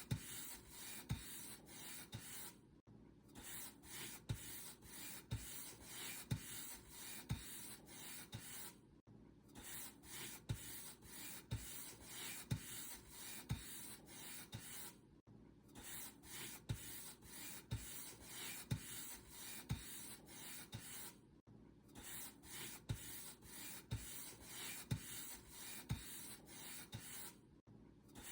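Paint brush bristles stroking back and forth over a surface, a run of soft rubbing swishes about once a second, with a short break roughly every six seconds.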